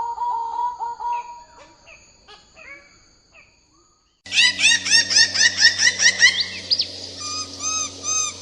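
Bird-of-paradise calls: a run of fast repeated notes that breaks up into scattered calls and fades out. About four seconds in, a louder recording cuts in with rapid arched notes over a low steady hum, slowing to spaced notes near the end.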